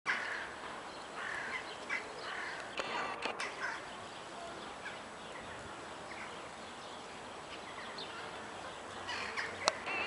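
Short bird calls in scattered bursts through the first few seconds and again near the end, over a steady background hiss, with one sharp click near the end.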